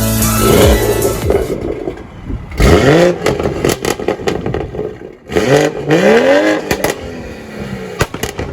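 Car engine revved twice, its pitch climbing each time, with sharp pops and crackles from the exhaust between and after the revs.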